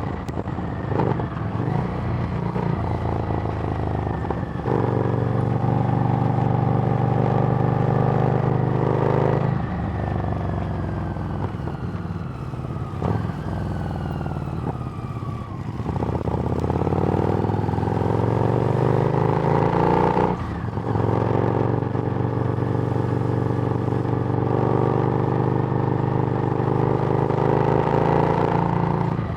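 Harley-Davidson Street Rod's 750 cc V-twin running through a Screamin' Eagle exhaust while being ridden. It pulls steadily, then eases off about ten seconds in, its pitch falling for several seconds as it slows. It then picks up again, with a brief break about twenty seconds in like a gear change, and settles back into a steady run.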